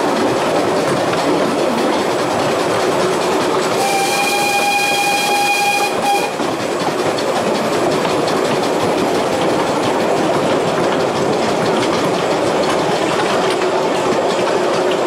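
Narrow-gauge heritage train running steadily, its carriage wheels rumbling and clicking along the rails, heard from aboard the carriage. About four seconds in the locomotive gives one blast of its whistle lasting a little over two seconds.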